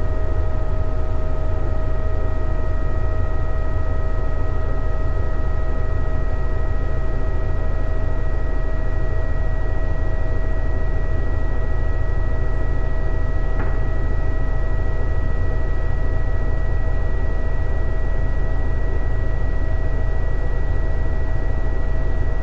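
Toshiba ZABOON AW-7D9 washing machine's direct-drive (DD) motor spinning at steady speed in the spin cycle. It gives a steady, somewhat high-pitched whine over a low rumble. The whine comes from the inverter-driven multi-pole motor running at high speed.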